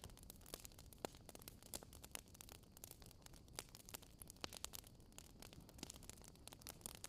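Faint crackling of a wood fire, with irregular small pops and snaps, a few every second, over a low hiss.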